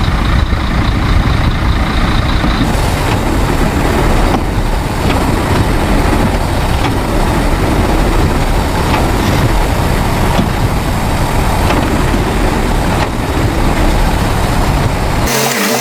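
A heavy truck's engine running steadily, with a few faint knocks. The rumble cuts off suddenly near the end.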